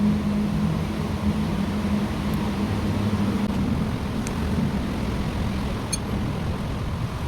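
A steady low hum like a nearby motor vehicle, fading out about halfway through, over an even background rush, with a few faint light clicks.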